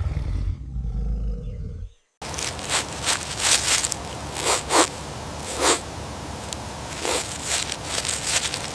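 A large animal's deep roar that cuts off suddenly about two seconds in. After a short gap comes a long rough, noisy stretch with repeated harsh rasps.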